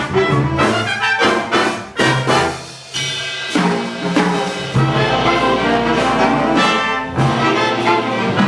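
Jazz big band playing, led by trumpets and trombones. The band opens with short accented chords, eases off briefly, then holds long full chords, and short punchy hits return near the end.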